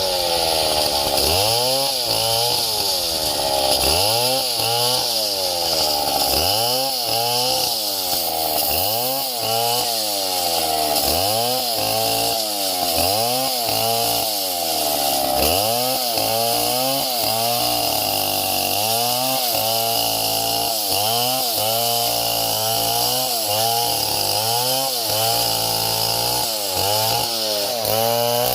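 Small chainsaw running, its engine pitch repeatedly rising and dropping back about once a second.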